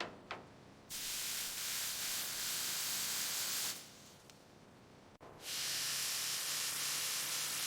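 A steady hissing spray, like compressed air through a nozzle, in two long stretches: it starts about a second in, stops for nearly two seconds in the middle, then starts again. A few short clicks come right at the start.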